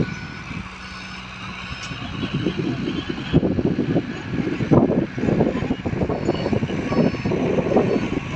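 Heavy earthmoving machinery running, its sound surging unevenly from about two seconds in. Faint short high beeps come in groups of three near the start and again near the end.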